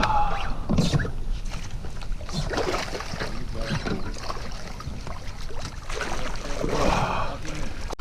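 Water splashing and irregular knocks against a fishing kayak's hull while a hooked bass is fought and brought in.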